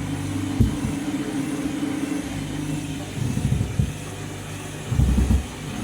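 Washing machine on its spin cycle with an out-of-balance load: a steady motor hum with a knock about half a second in and bouts of heavy low thumping from the drum toward the middle and near the end. Spinning unbalanced like this can hammer the drum bearings.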